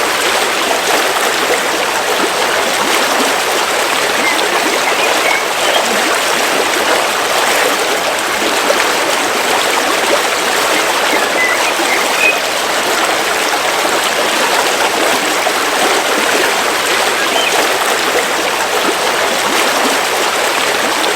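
A river flowing steadily over rocks: an even rush of running water.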